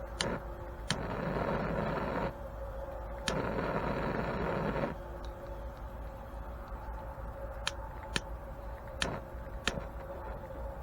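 Propane torch hissing in two bursts of about a second and a half each, with scattered sharp clicks.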